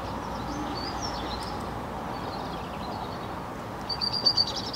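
Songbirds singing over a steady outdoor background hiss: a few short high chirps about a second in, then a rapid trill of repeated high notes near the end that falls in pitch as it finishes.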